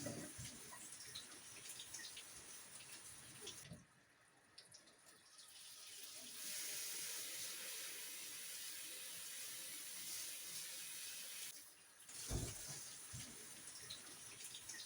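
Water running from a tap into a sink, a steady hiss for about six seconds that stops near the end, with light clicks and a knock of things being handled at the sink.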